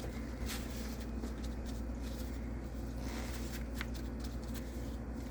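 Faint rustling and a few soft clicks of chicken thighs being handled and fitted into a baking dish, over a steady low hum.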